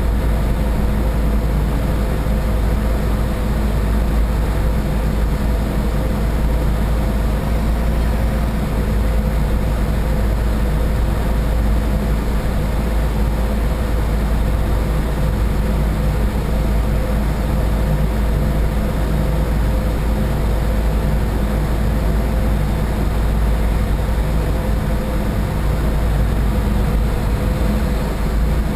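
A boat's engines running at a steady cruise, a constant low drone with a steady hum over it and the rush of the hull and water.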